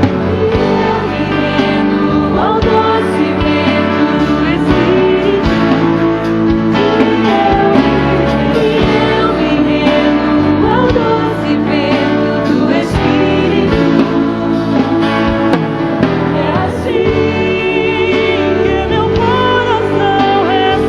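Live gospel worship song: singers holding wavering sung notes over a full band with steady drum hits.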